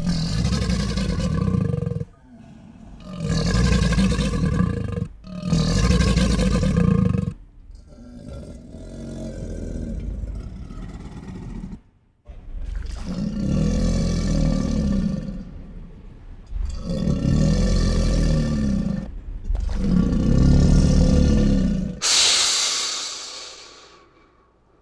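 A series of about seven loud animal-like roars, each about two seconds long with short gaps between them, one of them longer and quieter. Near the end a brighter, hissier burst fades out.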